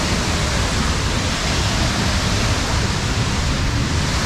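Pothupara waterfall close by: a steady, loud rush of falling water.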